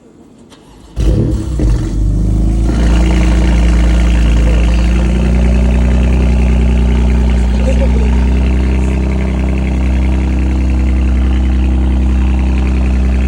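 BMW M2's turbocharged straight-six with a tuned exhaust starting up about a second in: it fires with a sudden loud flare, then settles into a steady idle.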